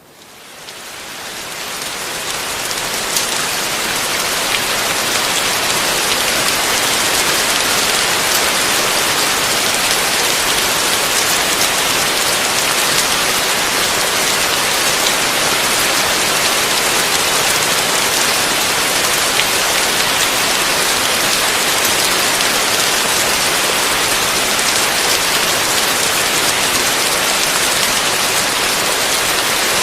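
Heavy rain falling steadily on a roof, an even hiss with scattered drop ticks, fading in over the first few seconds.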